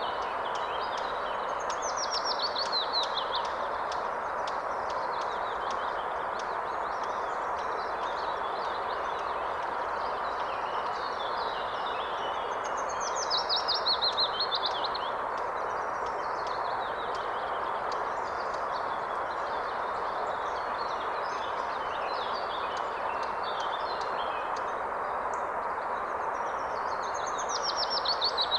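A river rushing steadily in a forest, with a songbird singing a quick series of notes falling in pitch three times, about every twelve to fifteen seconds, and fainter bird calls between.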